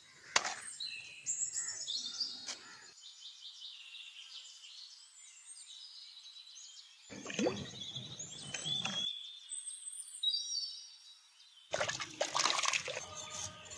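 Birds chirping and singing, many short whistled calls and trills, over a light outdoor background that drops out and returns abruptly a few times.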